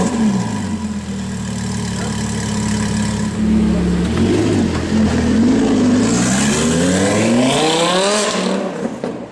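Lamborghini Huracan's V10 through an aftermarket Fi exhaust, settling from a start-up flare into a steady idle. It gives a small blip about four seconds in, then a long rev that climbs for about two seconds and drops back before a sudden cut.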